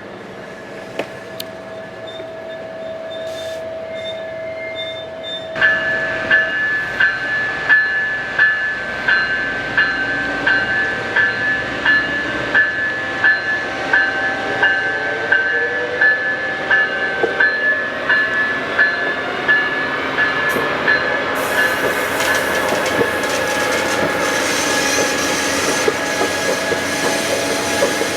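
Amtrak Coast Starlight passenger train, led by a Siemens ALC-42 diesel-electric locomotive, passing. From about six seconds in there is a sharp, regular beat about three times every two seconds, and the sound grows louder toward the end.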